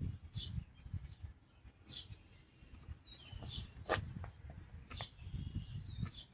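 A bird repeating short falling chirps every second or so, over low handling clatter with a couple of sharp clicks.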